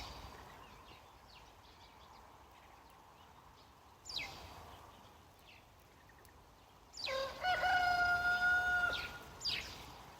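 A rooster crowing once, a long drawn-out call starting about seven seconds in. Short, sharp falling bird calls sound at the start, about four seconds in and again near the end.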